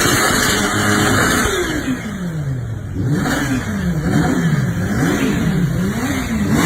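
Kawasaki Ninja H2R's supercharged inline-four engine held at steady revs, then dropping about a second and a half in. It is then revved up and down about once a second, roughly five throttle blips.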